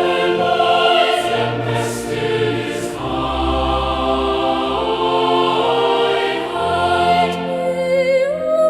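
Choir singing a slow hymn in sustained chords without clear words.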